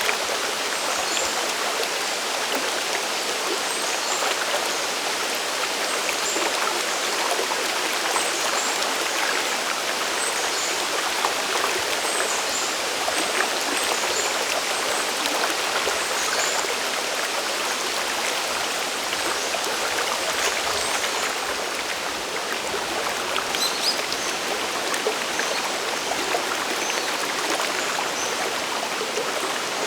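Mountain stream and waterfall water rushing in a steady, even hiss, with faint short high chirps scattered over it.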